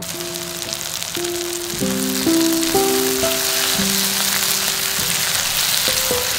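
Diced eggplant and onion frying in oil in a pan, a steady sizzle, with light plucked background music over it.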